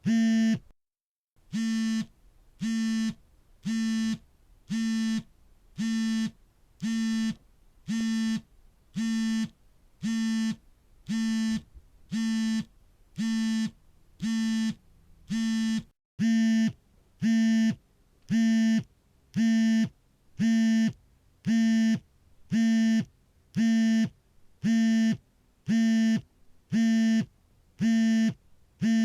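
Smartphone vibrating for an incoming call: short, even buzzes of the vibration motor, about one and a half a second, each with a steady pitch. There is a brief gap just after the start, and the buzzes are slightly louder from about halfway through.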